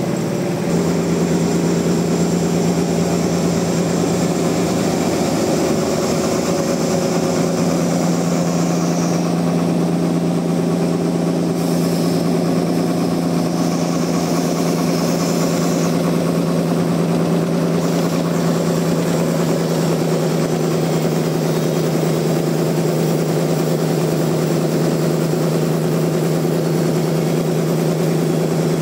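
Sawmill machinery running steadily, a constant motor hum with a high whine above it that wavers for a while around the middle.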